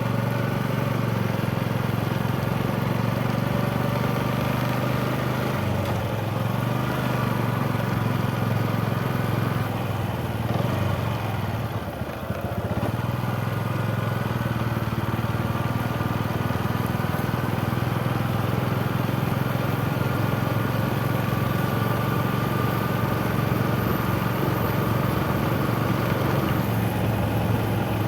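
Motorcycle engine running steadily while being ridden, its note dipping briefly about twelve seconds in.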